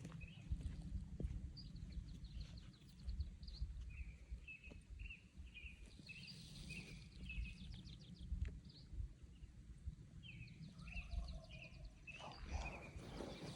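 A songbird calling in runs of short, high, repeated chirps, about two a second, in three bouts with pauses between, over a low wind rumble. Rustling, like footsteps in brush, comes in near the end.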